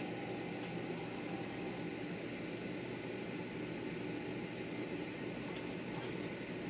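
Running noise of a 500-series Shinkansen heard inside the passenger cabin: a steady rumble and hiss of the train travelling at speed.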